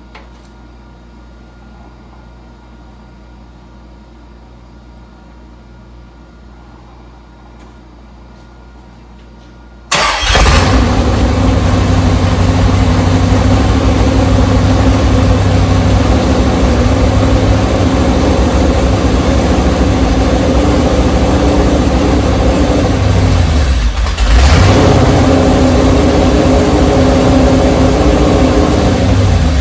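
Low steady hum, then about ten seconds in a 395-cubic-inch engine on an engine dyno fires and runs loudly on its new EFI rig. Near the end it dips for a moment and picks up again, running a little louder.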